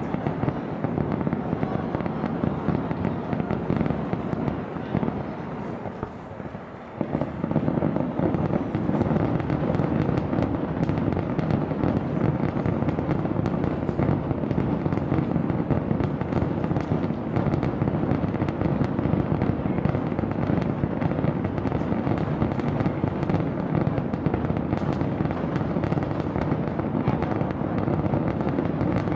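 Aerial fireworks bursting in a dense, continuous barrage of booms and crackles, easing briefly about five to seven seconds in before coming back at full intensity.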